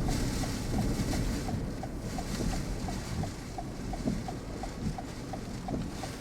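Wind rushing against a vehicle in a tornado's inflow, with a light ticking repeating about three times a second.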